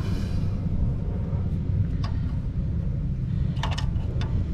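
A steady low rumble, with a few brief faint clicks and scrapes about two seconds in and again near the end as hardened oil-seal residue is picked at on a metal oil filter housing adapter.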